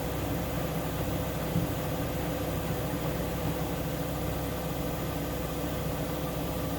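Siemens Siwamat IQ 716 washing machine running, a steady motor hum with a hiss and no change in speed.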